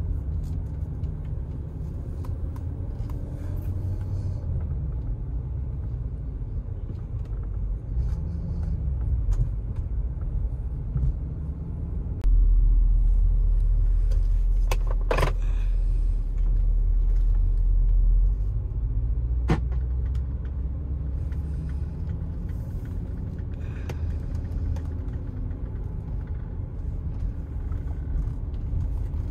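Porsche Cayenne Turbo's twin-turbo V8 with factory sports exhaust, heard from inside the cabin while driving: a low steady rumble with small rises and falls in engine speed. About halfway through it grows louder and deeper for some six seconds, and two sharp clicks come in the middle.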